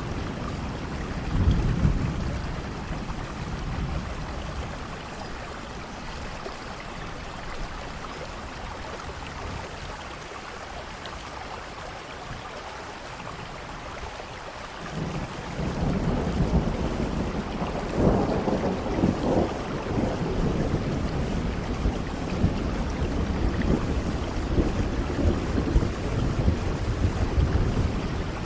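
Steady rain with thunder. A rumble comes near the start, then rain alone for several seconds. About halfway through the thunder builds again and rolls on to the end, loudest a few seconds after it begins.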